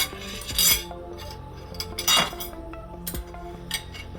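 Utensils clinking and scraping on a dinner plate while angel hair pasta is served, with three louder strokes near the start, just under a second in and about two seconds in. Background music plays underneath.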